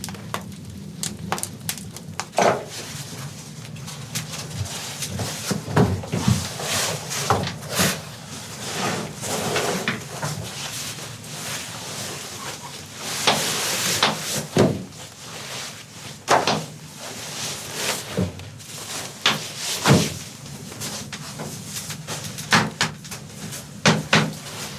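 A series of irregular knocks and clunks, like things being handled and set down, with a stretch of rustling about halfway through.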